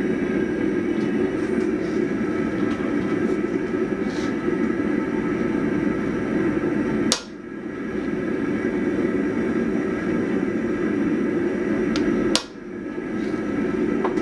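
A forge running with a steady rushing noise while an axe head heats in it. Two sharp clicks come, about halfway through and again near the end, and after each the noise drops suddenly and builds back up.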